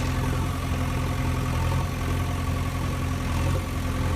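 Steady engine-like running sound with a low, pulsing rumble from a toy JCB backhoe loader at work.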